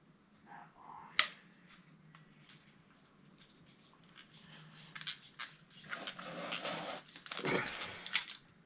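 A man grunting with effort while working on his knees, with a low strained groan near the end. There is a sharp click about a second in, and scraping and rustling as parts are handled.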